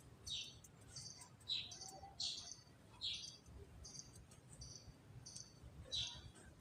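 Faint, short, high bird chirps, each dropping in pitch, repeated about ten times at uneven gaps of roughly half a second to a second.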